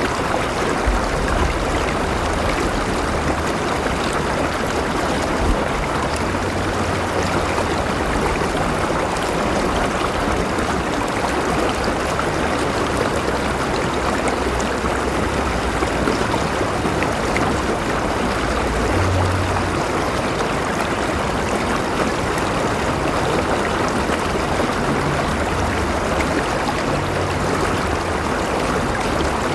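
River water flowing steadily over rocks, a continuous rushing babble with faint low rumbles now and then.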